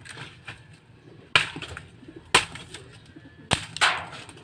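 Sharp cracks of firewood being broken up for the fire: four hard strikes, the last two close together.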